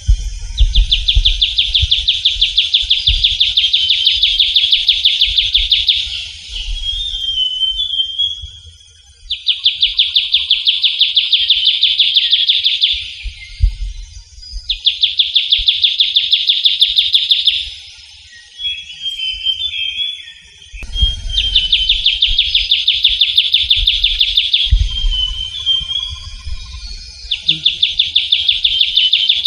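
Trilling shrike-babbler (Pteruthius aenobarbus) singing: five long, fast, even trills of about three to five seconds each, with short twittering notes between them.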